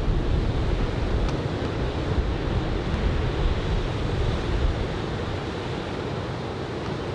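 Ocean surf breaking on the beach from a typhoon swell, a steady wash of noise that eases a little after about five seconds, with wind buffeting the microphone.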